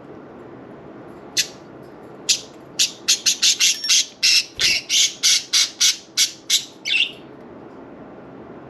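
Budgerigar giving loud, harsh squawks: two spaced calls, then a fast run at about three a second that stops abruptly.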